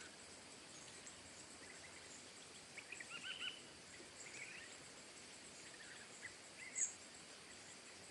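Small songbirds chirping faintly: a quick run of chirps about three seconds in, a few scattered chirps after, and a short sharp high note near the end, over a steady faint hiss.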